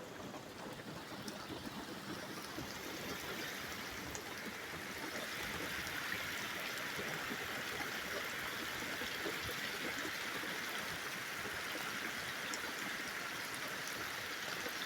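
Steady hiss of rain falling, a little louder and brighter from about five seconds in.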